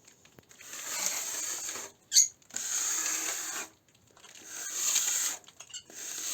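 A steel spatula scraping over rough, partly set tile-adhesive plaster to smooth it, in four strokes of about a second each, with one sharp click about two seconds in.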